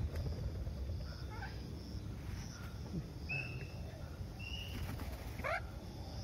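Bird calls among trees: two short high chirps about a second apart, some fainter notes before them, and a quick rising whistle about five seconds in, over a low background rumble.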